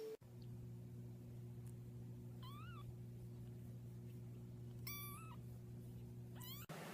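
Domestic cat giving faint short calls: a wavering chirp about two and a half seconds in, a meow about five seconds in, and a quick rising trill near the end, over a steady low hum.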